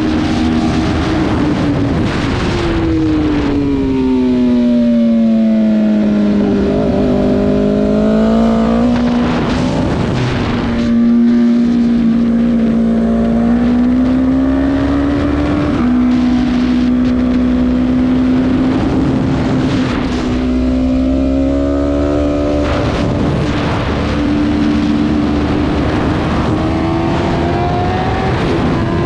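Superbike racing motorcycle engines at high revs on track, the pitch climbing and falling through the gears with short breaks at the shifts and throttle lifts.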